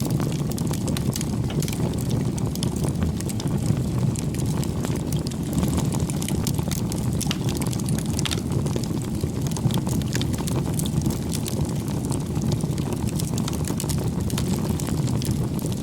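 Bonfire burning: a steady low rumble of flames with frequent sharp crackles and pops of burning wood.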